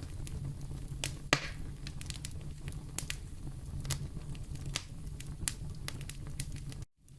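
Wood fire in a fireplace crackling, with scattered sharp pops over a steady low rumble. One loud pop comes about a second in, and the sound cuts out for an instant near the end.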